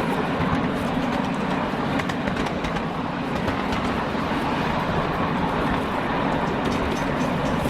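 A train rolling along its track with a steady rumble and faint, scattered clicks.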